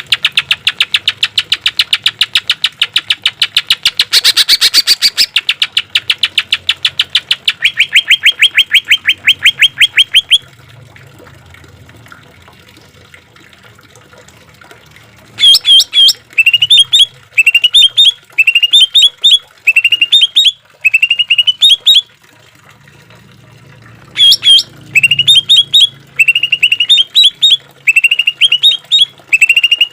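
Green leafbird (cucak ijo) singing. It opens with about ten seconds of very fast, loud repeated notes, then falls quiet for about five seconds. It then sings short rising phrases about once a second, in two runs with a brief break between them.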